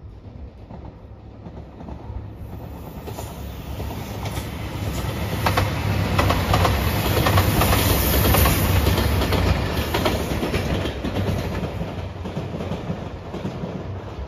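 JR Shikoku 2700 series diesel limited express train passing. The sound grows to a peak about halfway through and then fades, with a low rumble throughout. The wheels click over the rail joints as the cars go by.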